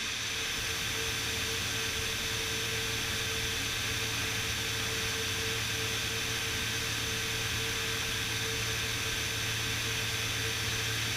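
Steady cockpit drone of a Beechcraft Bonanza S35 in flight: engine and propeller noise heard from inside the cabin, an even hiss over a low hum with a faint constant tone, unchanging throughout.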